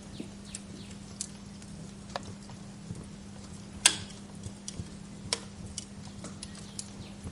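Wood fire crackling in a fireplace: scattered sharp pops and snaps at irregular intervals, one loud snap about four seconds in, over a steady low hum.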